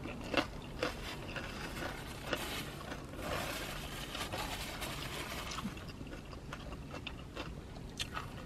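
Close-miked chewing of fried fast food with the mouth closed: an irregular run of small wet mouth clicks and soft crunches.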